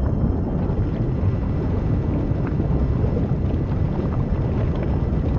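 A steady low rumbling noise with no clear rhythm or pitch, heaviest in the bass.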